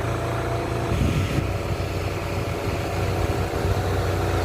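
Strong hurricane wind blowing and buffeting the microphone as a steady low rumble.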